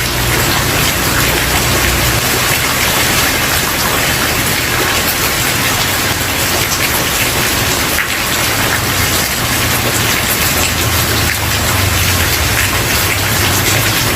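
Steady rain falling on a wooden porch: an even, dense hiss of drops with no gaps. A low rumble sits underneath for the first couple of seconds, fades, and returns from about nine seconds in.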